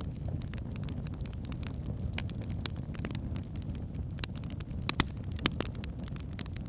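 Wood fire burning in a fireplace: a steady low rumble of flames with frequent sharp crackles and pops from the logs, the loudest pop about five seconds in.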